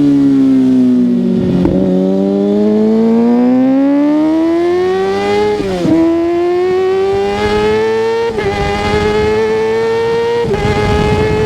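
Kawasaki ZX-6R 636's inline-four engine on the move: the revs fall for about a second and a half, then climb steadily as the bike accelerates. Three quick upshifts follow, about six, eight and ten seconds in, each a sudden drop in pitch before the revs climb again.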